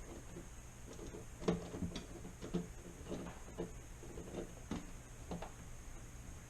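Crimping tool clicking repeatedly, about two clicks a second, as a wire connector is clamped down onto a refrigerator defrost heater wire.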